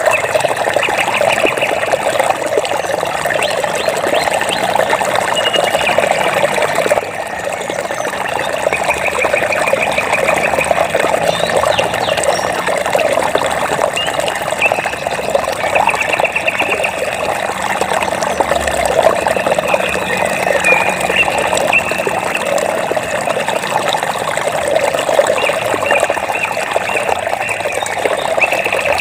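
Flowing water trickling and splashing steadily. Short, high, rapid trills recur every few seconds over it. The level dips briefly about seven seconds in.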